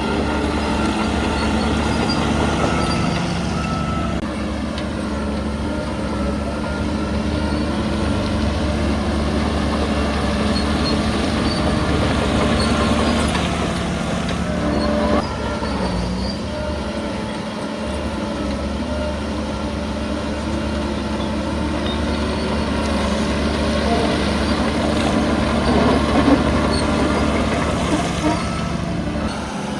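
Heavy diesel earthmoving machinery running steadily under work, with metallic clanks and a couple of sharper knocks about halfway and near the end.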